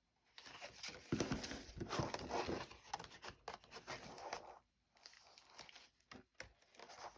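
Paper rustling and crinkling as a vintage paper doll book is handled and its pages turned, in irregular rustles with a short pause just under five seconds in.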